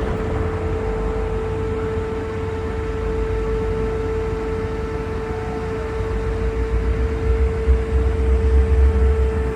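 Steady machine hum with one constant mid-pitched tone over a low rumble, the rumble swelling about seven seconds in.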